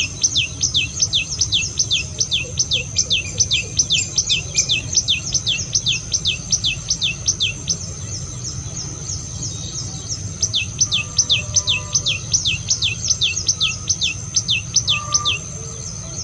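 A bird calling with a rapid run of high, down-slurred whistled notes, about three a second, in two bouts with a short pause between, over a steady high-pitched drone.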